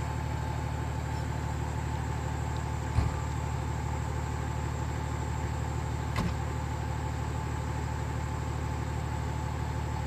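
A vehicle engine idling steadily with an even low rumble. Two sharp clicks or knocks come about three seconds apart, near 3 s and 6 s in.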